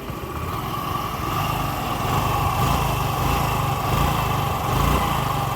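Yamaha RayZR scooter engine running and being revved lightly, its level climbing over the first couple of seconds and then holding with a steady whine.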